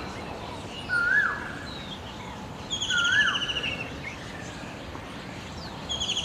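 A bird repeating the same call about every two seconds: a short rising-then-falling whistled note with a quick, falling, buzzy trill above it. The call comes twice, and a third begins near the end, over a steady background hiss.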